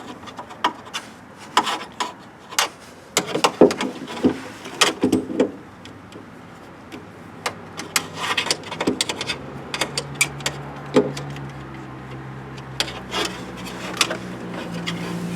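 Irregular clicks and knocks of plastic and metal lock parts being handled and fitted inside a car door. From about nine seconds in, a steady low hum joins them.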